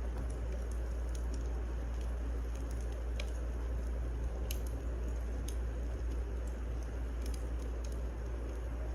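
Wood fire crackling in a fireplace: a steady low rumble and hiss with sharp little pops scattered through it.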